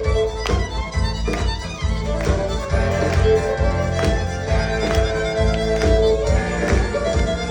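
Live folk-rock band playing, with a fiddle holding long melody notes over bass and a steady drum beat.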